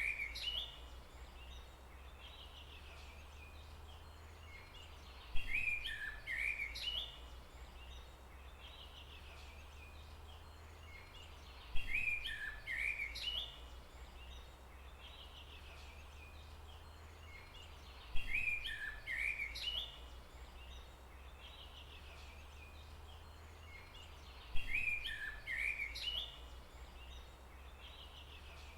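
A songbird singing a short phrase of quick chirps and whistles, lasting about two seconds, that repeats the same way about every six seconds. A steady low rumble runs underneath.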